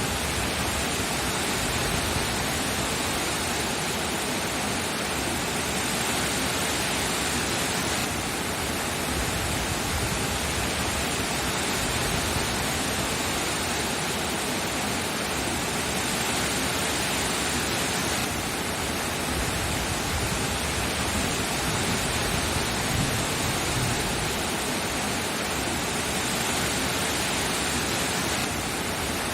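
Steady rain, an even, unbroken hiss with no separate drops standing out.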